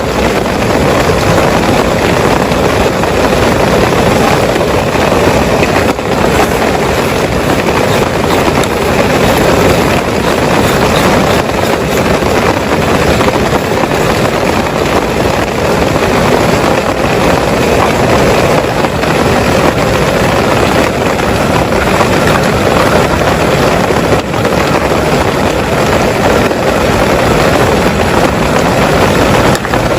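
Heavy rain falling steadily, a loud, dense, even rush of drops.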